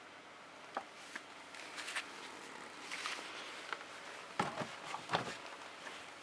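Handling noises while engine oil is poured through a funnel and hose: light clicks, rustling, and two sharper knocks past the middle.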